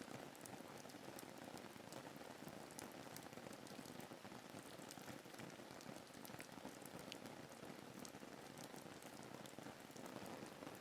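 Soft, steady rain ambience: an even hiss of falling rain with many small, scattered drop ticks.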